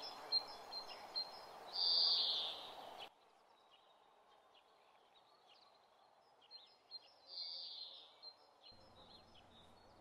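Small birds chirping and twittering over quiet outdoor background noise. There are louder bursts of chirping about two seconds in and again near the end. The background hiss drops sharply about three seconds in.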